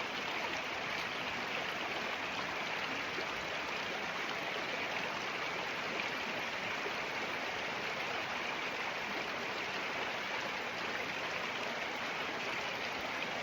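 River water flowing and rushing steadily, a constant even wash of sound.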